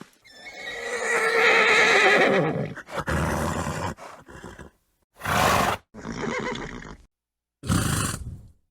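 Horse neighing: one long whinny with a wavering, falling pitch, then four shorter horse calls or snorts separated by clean gaps.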